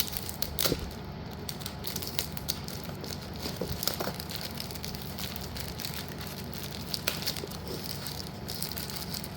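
Packaging crinkling and rustling as packs of yellow slate pieces are handled, with scattered small clicks and taps throughout.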